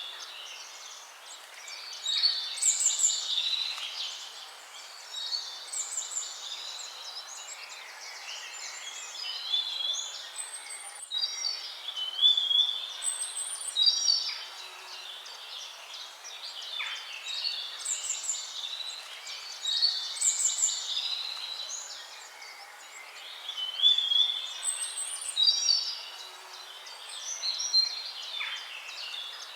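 Songbirds singing, short chirping phrases repeating every few seconds over a steady background hiss.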